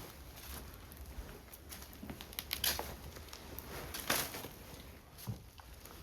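Footsteps crackling on paper and debris strewn across a floor: a few scattered taps and crinkles.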